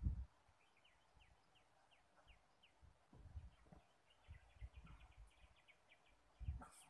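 Mostly quiet. Faint rapid chirps of a small bird run as a long series of short notes, over occasional low muffled thumps.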